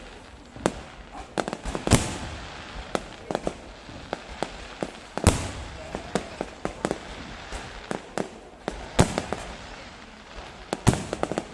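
Fireworks going off: a steady stream of irregular bangs, the biggest about every few seconds, with quicker pops and crackles between them.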